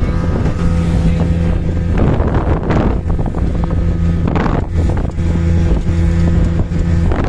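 Motorboat engine running steadily, with wind buffeting the microphone now and then.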